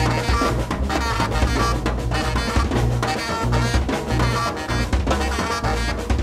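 Live jazz trio playing: saxophone over busy, dense drum-kit playing, with low bass notes shifting underneath.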